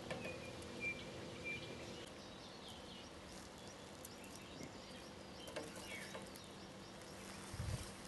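Faint outdoor background with a few short, high bird chirps, scattered light taps, and a couple of dull thumps near the end as a bird flutters and bumps against a window pane.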